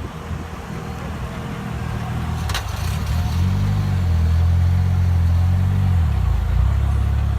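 A car engine running at low revs close by, its low rumble growing louder over the first few seconds and then holding steady. A short sharp click comes about two and a half seconds in.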